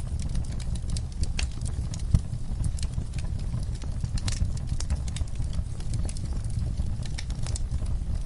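Fireplace fire crackling: irregular sharp pops and snaps, some louder than others, over a steady low rumble of flames.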